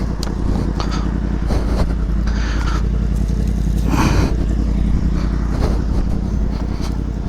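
Motorcycle engine running steadily with a low rumble, with scattered clicks and a brief louder rush of noise about four seconds in.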